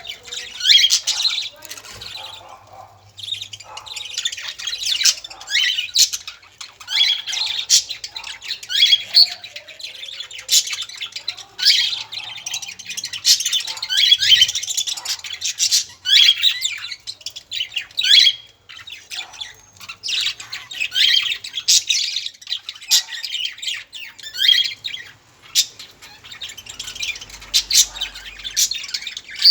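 Many small birds chirping and calling at once, a dense run of short, high, overlapping calls with no pause.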